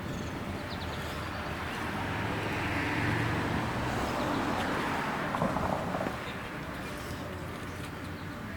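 A vehicle driving past, its road and engine noise swelling and then fading over a few seconds.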